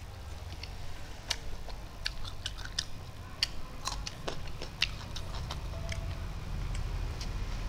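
Close-up eating sounds of a person eating rice by hand: irregular wet clicks and smacks of chewing and lips, over a low steady hum.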